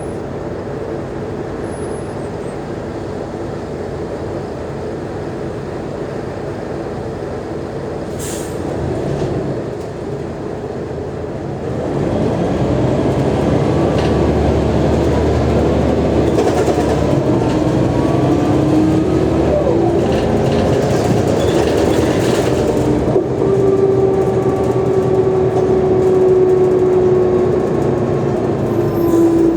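Mercedes-Benz O345G articulated city bus's diesel engine running steadily, then pulling away hard about twelve seconds in, louder and with a deep rumble. A whine rises with speed, then holds steady, and there is a brief hiss about eight seconds in.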